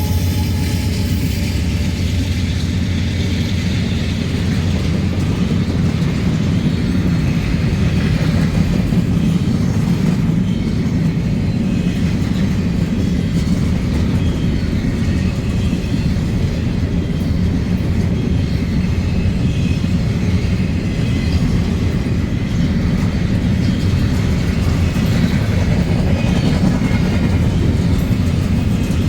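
Freight train rolling past with a steady, continuous rumble of wheels on rail.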